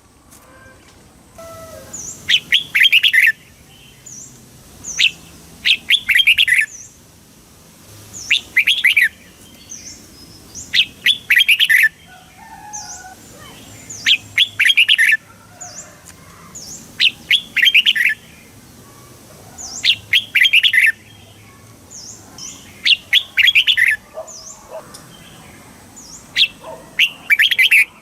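Red-whiskered bulbul singing: short phrases of quick, clear notes, about one every two to three seconds, with faint higher chirps between them.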